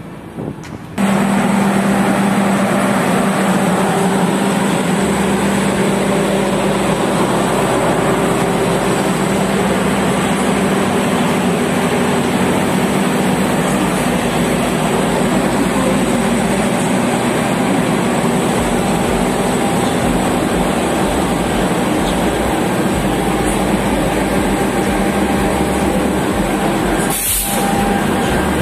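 Train running on rails: a loud, steady rumble and rail noise with a low hum underneath, starting suddenly about a second in.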